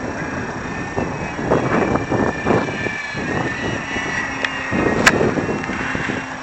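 Electric motor and propeller of an FMS PT-17 radio-controlled model biplane whining in flight, the pitch drifting slowly as the throttle and the plane's distance change. Irregular gusts of wind buffet the microphone.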